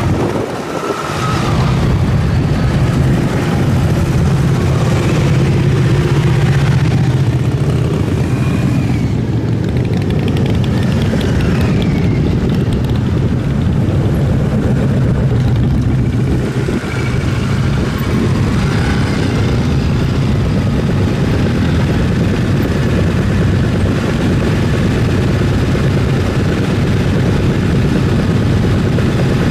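Motorcycle engines running, their pitch rising and falling now and then.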